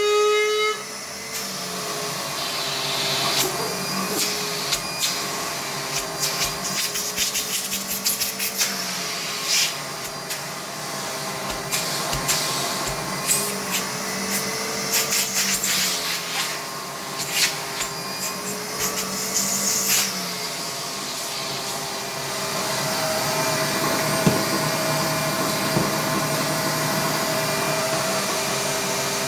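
Allegro Champion MUA50 central vacuum running with a steady whine and rush of air, broken by many scattered clicks and rattles. About two-thirds of the way through the clicking stops, the whine steps up in pitch and the sound gets a little louder.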